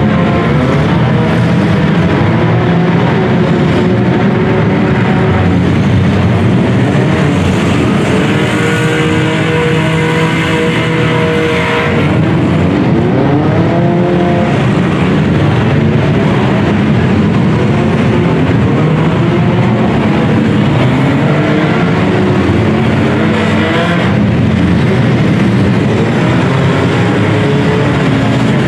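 Several compact demolition-derby cars' engines revving hard at once, their pitches rising and falling over a steady loud din.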